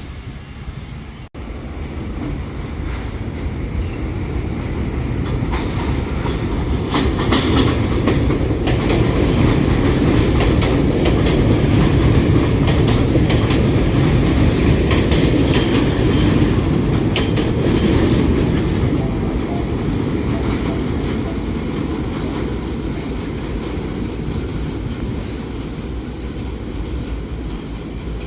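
A New York City Subway SMEE-type train runs along the track. Its low rumble builds, stays loudest for about ten seconds with the wheels clicking over rail joints, then eases off.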